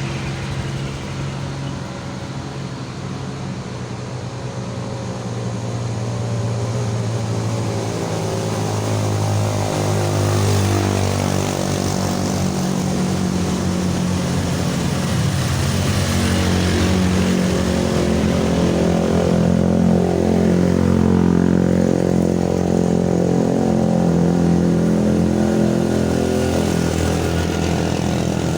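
Motor vehicle engine labouring up a steep incline under heavy load, its note rising and falling as it is revved. It grows louder over the first twenty seconds or so, then holds steady.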